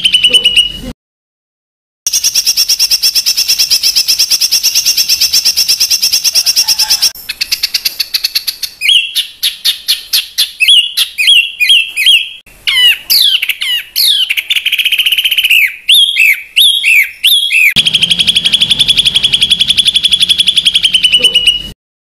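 Recorded songbird song of the kind played as masteran, tutor song for competition birds: a fast, even trill of rapidly repeated notes, then a run of varied sharp rising and falling whistled notes, then the fast trill again. The recording cuts to dead silence for about a second near the start and again near the end.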